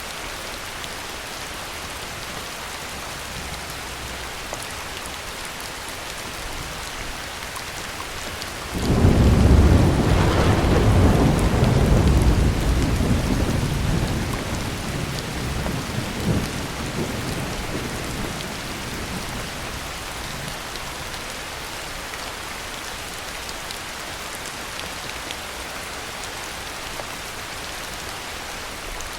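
Steady heavy rain, joined about a third of the way in by a clap of thunder that breaks in suddenly, rumbles deep for several seconds with a smaller crack partway through, then rolls away into the rain.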